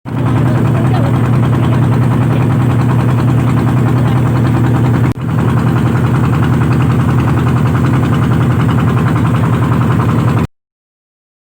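Engine of an iron-ox tractor cart running steadily with a fast, even chugging. The sound drops out for an instant about five seconds in and cuts off abruptly near the end.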